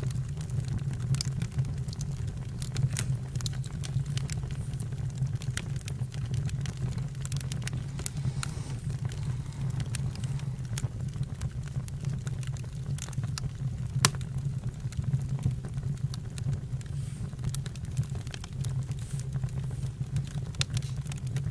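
Campfire burning: a steady low rumble of flames with scattered sharp crackles and pops from the burning wood, the loudest pop about fourteen seconds in.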